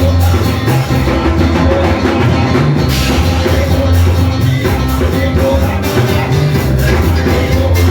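Loud live gospel band music with drum kit and bass, playing steadily.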